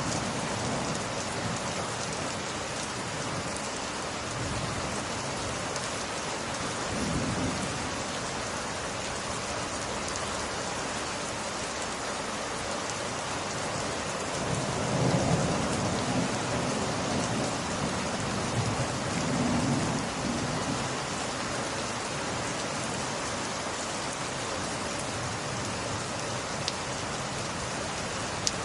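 Steady rain falling on window glass, with several low rumbles that swell and fade, and a few sharp crackles from a wood fire near the end.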